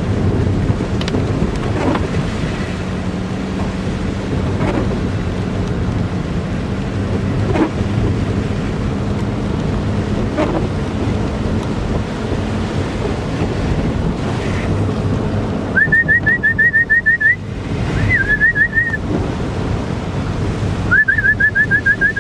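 Steady road and wind noise from a moving vehicle, then, from about two-thirds of the way in, a person whistling in three quick runs of short rising whistles to call a dog.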